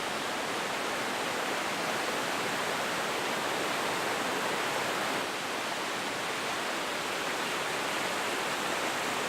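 Fast-flowing river water rushing, a steady, even noise that does not change.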